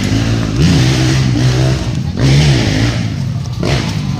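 Motocross dirt bike engine running, with two quick throttle blips that send the pitch up and back, about half a second in and again about two seconds in.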